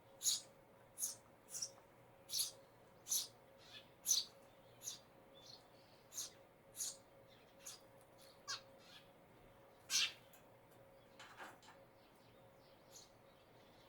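Eurasian tree sparrow chirping: short, sharp, high chirps repeated about every two-thirds of a second, growing sparser and fainter in the second half, with one louder chirp about ten seconds in.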